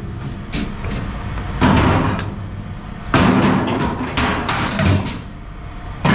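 Scrap metal clanking and thudding as pieces are handled and dropped, about five heavy knocks spaced a second or so apart.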